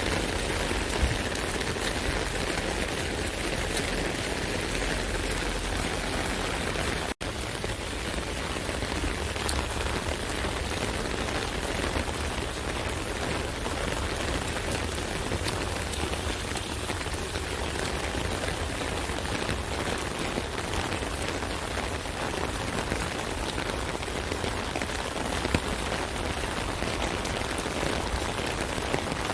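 Steady rain falling on an umbrella: a constant hiss of rain with many small drop hits on the canopy, and a momentary break about seven seconds in.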